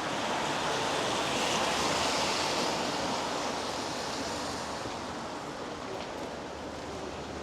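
Rain and wet-road traffic hiss on a city street, swelling about two seconds in and fading by about five seconds.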